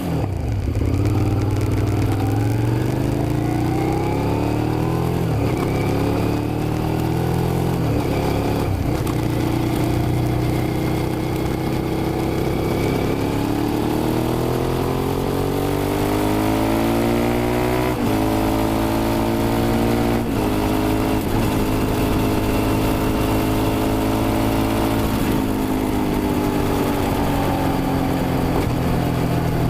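Suzuki SV650's 90-degree V-twin engine accelerating hard, its note climbing in pitch through each gear and dropping back at each upshift, several times over.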